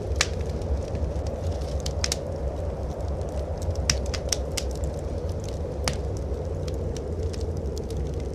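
Wood fire in a fireplace crackling, with sharp pops scattered irregularly, most clustered around the middle, over a steady low rumble.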